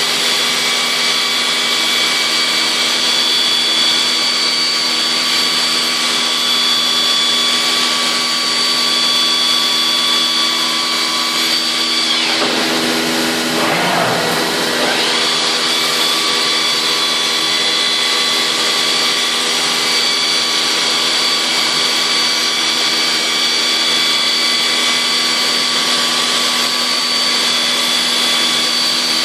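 Biesse Rover 24 CNC router running with a steady high whine over a rushing noise. About twelve seconds in, the whine slides down in pitch and then climbs back up to speed within about three seconds.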